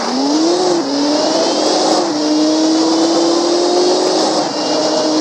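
Old BMW car engine pulling away: its note rises, steps down slightly twice in the first two seconds as it shifts up, then holds a nearly steady pitch while cruising.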